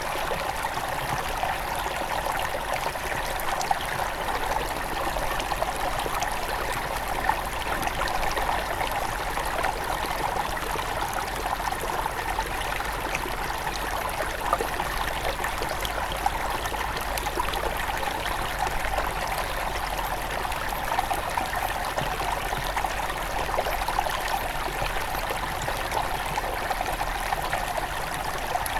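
Headwater stream of a small forest river running steadily: a constant babble and trickle of flowing water, with small splashes throughout.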